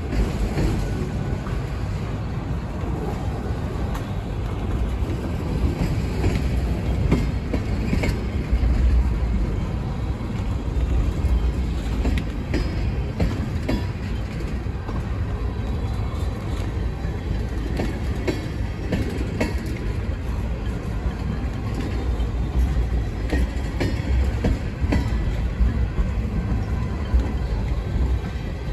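Freight cars, an autorack and then tank cars, rolling past with a steady low rumble and scattered clicks and clanks from the wheels on the rails.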